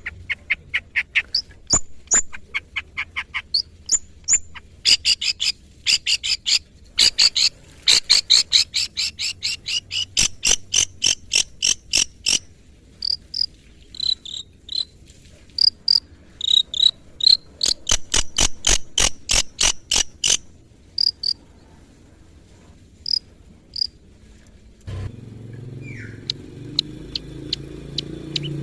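Long-tailed shrike singing: rapid, dry chattering trills in bursts, broken by short high whistled notes. It falls quiet for a few seconds near the end, when a low steady hum comes in.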